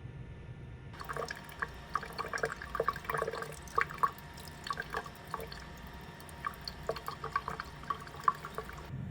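Water dripping and gurgling in quick, irregular blips that start abruptly about a second in and stop abruptly near the end.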